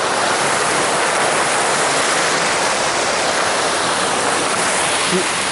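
Stream water rushing steadily, a loud even hiss of flowing water.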